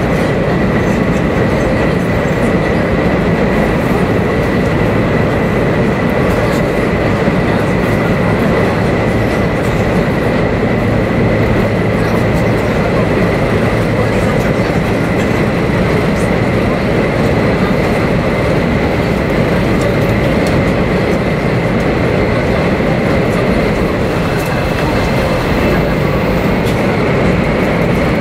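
Running noise of a 500 series Shinkansen heard inside a passenger car: a steady rumble and rush of wheels and air, with a thin, steady high whine over it.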